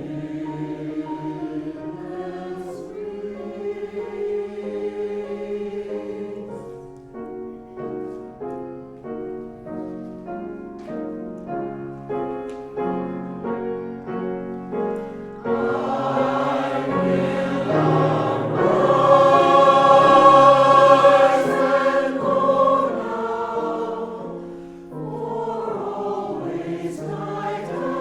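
A choir singing a sacred piece. It swells into a louder, fuller passage just past the middle, then falls back to softer singing.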